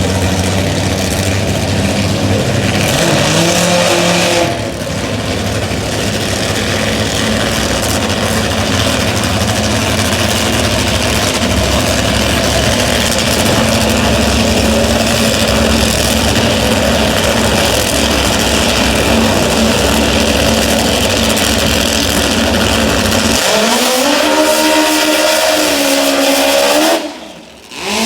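Top fuel drag motorcycle engines running loud and steady, with the pitch rising and falling in revs near the end, then briefly dropping away.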